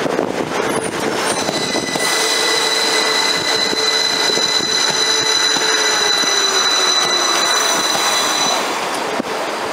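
Northern Class 333 electric multiple unit running past along the platform, its wheels squealing in a steady high-pitched note from about a second in until near the end, over the rumble of the train. A lower hum slides slowly down in pitch underneath.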